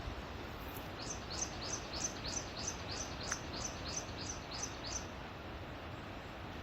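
A songbird giving a quick series of about a dozen high chirps, roughly three a second, each note falling in pitch, lasting about four seconds before it stops. Steady wind noise runs underneath.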